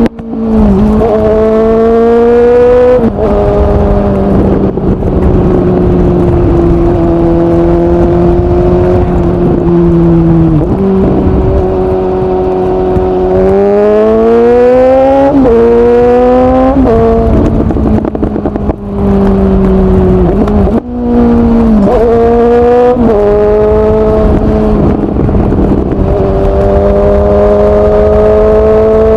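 Suzuki GSX-S750's inline-four engine through an open Yoshimura SQ11 exhaust with no dB killer, on the move. It cruises at steady revs, then revs climb under acceleration and fall sharply at each upshift, several times in quick succession around the middle. The throttle is shut briefly twice near the end before it pulls up through another gear.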